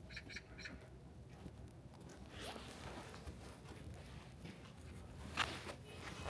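Harsh bird calls: a quick run of short calls at the start, a rougher call midway, and one loud sharp squawk about five seconds in.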